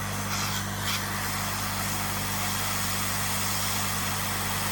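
Hot air rework station blowing on a laptop motherboard to desolder a MOSFET: a steady airy hiss over a steady low hum.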